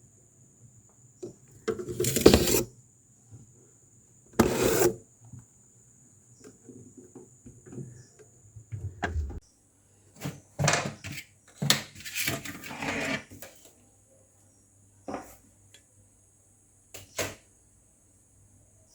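Irregular knocks and clatter of household objects being handled, such as pots, dishes or wooden items, with a busy run of them about ten to thirteen seconds in.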